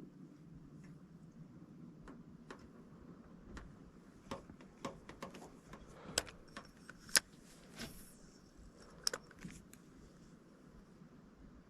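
A series of light, irregular clicks and taps, like fishing gear being handled, thickest and loudest in the middle.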